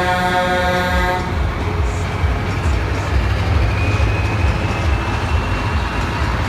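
A steady, many-toned horn blast that cuts off about a second in, then the low, uneven rumble of heavy truck engines running.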